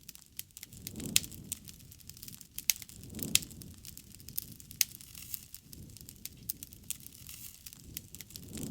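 Wood campfire crackling, with sharp irregular pops and snaps over a low rumble of burning that swells every two to three seconds.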